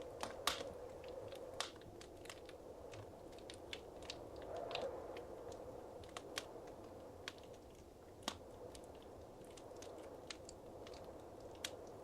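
Wood fire crackling softly in a fireplace: irregular sharp pops and snaps over a low steady hiss of burning, with a brief slightly louder flare-up about halfway through.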